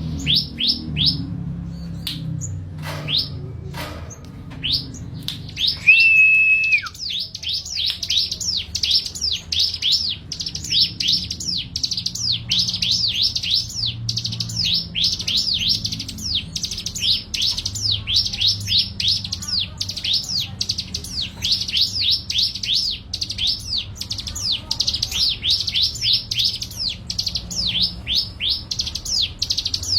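A songbird calling: a fast series of high chirps, each sweeping downward in pitch, about three a second, with a held whistle ending in a falling note about six seconds in. The chirps are sparse at first and then run on steadily.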